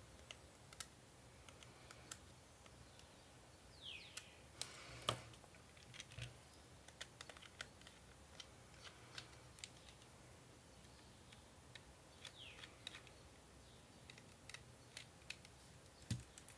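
Faint clicks and ticks of a small screwdriver and tiny screws as the screws are taken out of a mobile phone's plastic back case, with one louder click about five seconds in and a couple of short falling squeaks.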